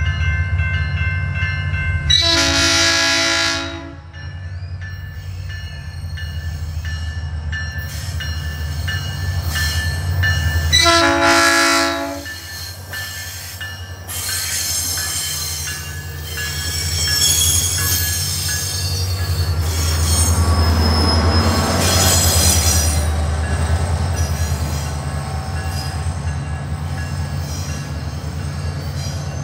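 SunRail commuter train passing: a steady diesel rumble, two long multi-note horn blasts about two and eleven seconds in, then wheels squealing and clattering on the rails as the cars go by.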